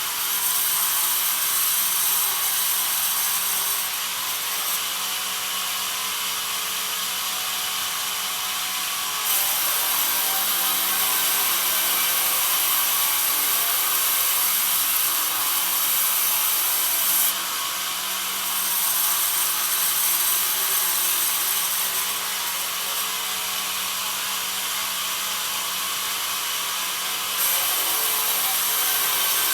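Bandsaw mill sawing pine: a continuous high rushing saw noise over a faint steady low hum, getting louder and softer several times.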